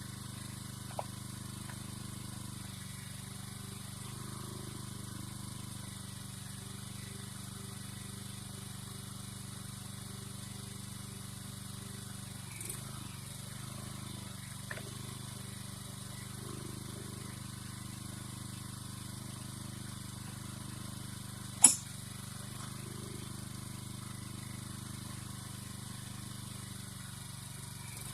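An engine running at a steady speed with an even hum, with a few light clicks and one sharp metallic knock about two-thirds of the way through.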